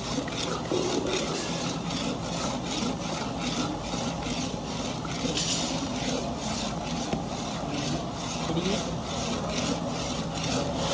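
Rhythmic scraping or rasping, about three strokes a second, over a steady low machine hum.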